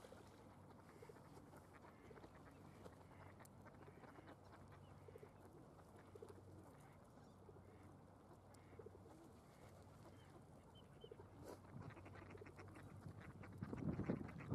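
Faint, soft bird calls, short and repeated about once a second, over a low steady hum, with a louder raspy burst near the end.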